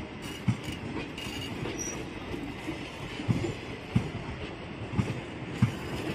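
ICF passenger coaches rolling past on the rails: a steady low rumble of wheels on track, broken by about six sharp, irregularly spaced clacks as wheelsets cross rail joints.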